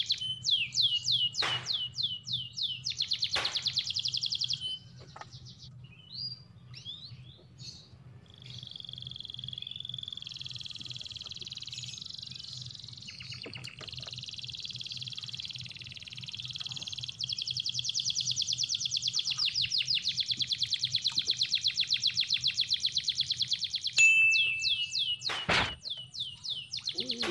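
Birds calling: quick runs of high, falling notes near the start and again near the end, with a faster high trill through the middle, over a low steady hum.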